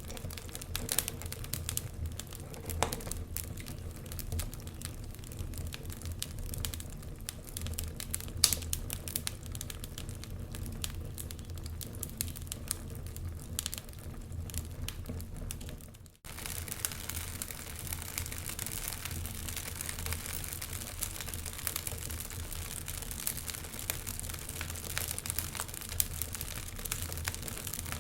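Wood fire crackling, with irregular sharp pops and snaps over a low rumble. About two-thirds of the way in the sound drops out for a moment and comes back with more hiss.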